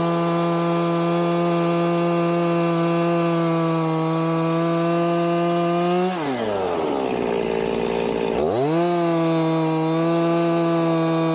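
Two-stroke chainsaw running at full throttle while ripping a log on a chainsaw mill. About six seconds in its engine speed drops sharply, runs low for about two seconds, then climbs back to full speed.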